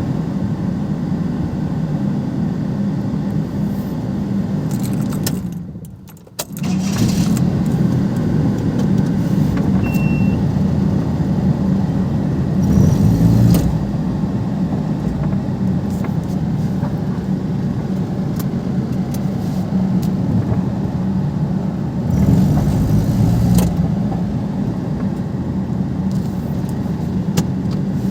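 Perodua Kenari's small engine and road noise while the car is driven. The sound is steady, drops away sharply for about a second around six seconds in, and swells louder briefly twice, around the middle and later on, as the car accelerates.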